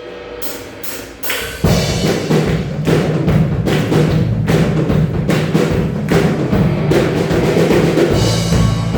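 Worship band starting a praise song: a few drum hits, then the full band with drums and bass comes in about one and a half seconds in.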